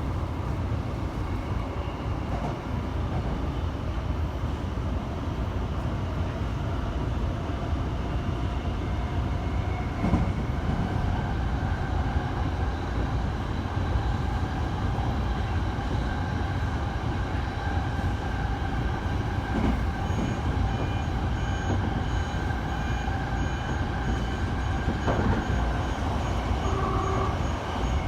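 Tokyo Metro Tozai Line train running between stations, heard from inside the car: a steady rumble of wheels on rail with a faint whine from the drive, and a few single knocks.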